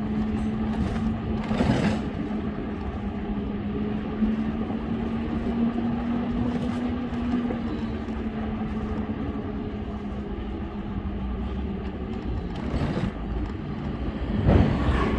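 Road traffic heard on the move: a steady engine hum and low road rumble, with a vehicle passing close about two seconds in and another near the end.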